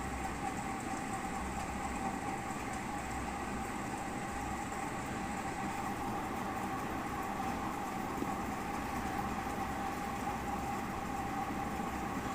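A steady, unchanging mechanical hum with a constant mid-pitched tone over a low rumble.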